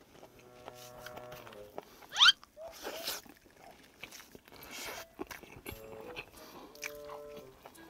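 Close-miked chewing and biting of spicy boneless chicken feet and a seaweed rice ball, with small wet clicks and crunches. A short, loud, rising squeaky sound comes about two seconds in, and soft background music notes sound under it.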